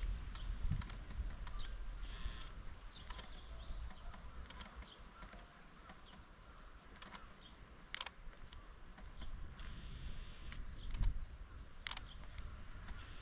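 A small bird giving runs of quick, high chirps, twice, over the low rumble of a walker's footsteps and camera handling, with a couple of sharp clicks.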